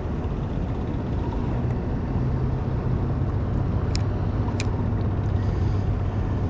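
A small skiff's outboard motor running steadily with a low hum. Two short clicks come a little after halfway through.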